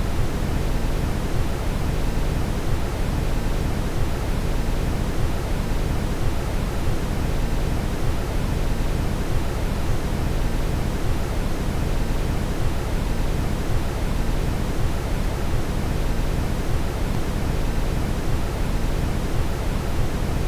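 Steady brown noise: an even, deep rushing hiss, heaviest in the low end, with no change or break.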